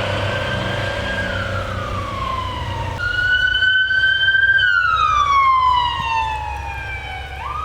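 Emergency vehicle siren wailing: the pitch jumps up, holds briefly, then slides slowly down, cycling about every four seconds, over a steady low hum.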